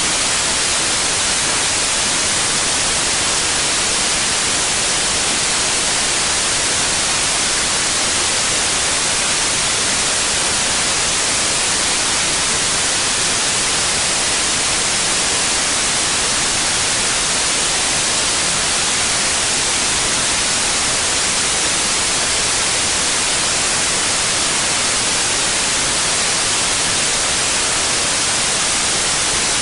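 Synthetic white noise: a steady, even hiss with no change in level.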